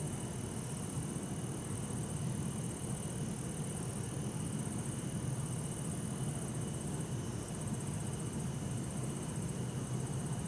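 Bell crickets and other insects trilling steadily over a low, even hum of distant city traffic.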